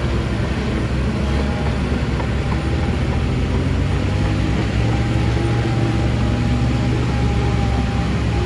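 Heavy diesel engine of earthmoving machinery running steadily, a deep drone that grows a little stronger about halfway through, with a faint high whine above it.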